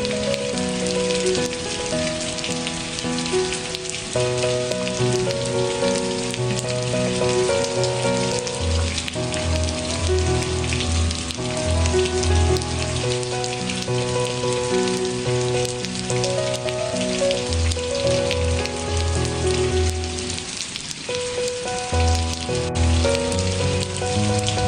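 Steady rain hiss mixed with gentle instrumental music: a slow melody of held notes over a low bass line. The music thins briefly near the end while the rain carries on.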